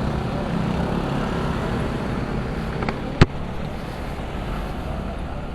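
Motor scooter engine running steadily while riding, under wind and road noise, with one sharp click about three seconds in.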